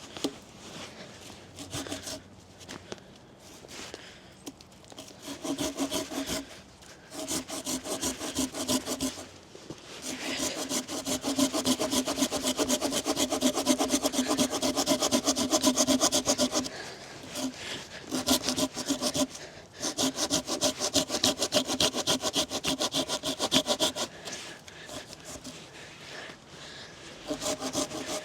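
A hand saw cutting through a log in fast back-and-forth strokes, starting in short bouts and then running steadily, with two brief pauses.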